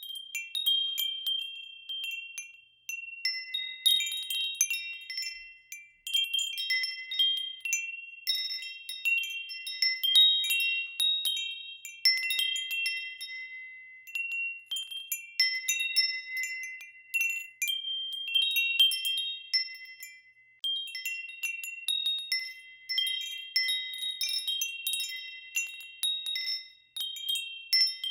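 Wind chimes ringing: high, bell-like tones struck in irregular clusters, several ringing on together for a few seconds, with brief lulls between gusts.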